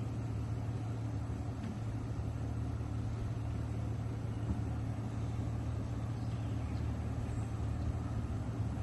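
A nearby engine idling with a steady low hum.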